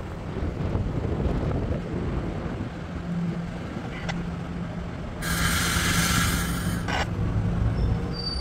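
MARC commuter train rumbling steadily as it pulls away, with a steady low engine tone in the middle. A loud hiss starts about five seconds in and cuts off sharply under two seconds later, followed by a single click.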